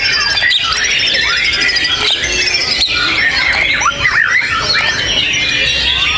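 Dense, continuous songbird chatter: many overlapping whistles, chirps and rapid up-and-down glides, with no pause.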